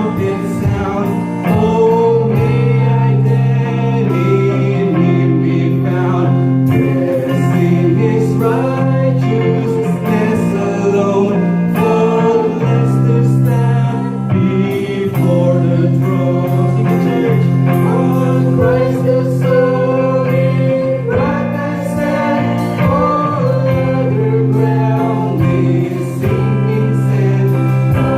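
Church congregation singing a hymn with instrumental accompaniment, at a steady, loud level.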